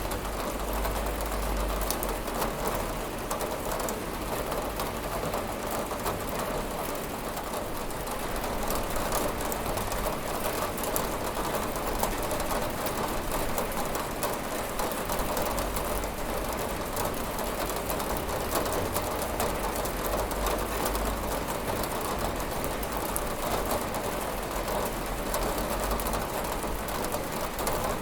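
Steady rain falling on a window: a dense, even hiss sprinkled with many small ticks of individual drops.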